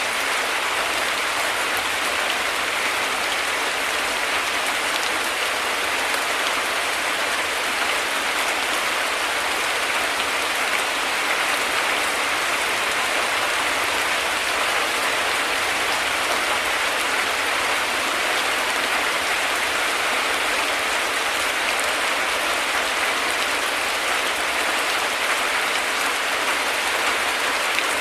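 Heavy rain falling steadily: a dense, even hiss of drops that holds constant throughout.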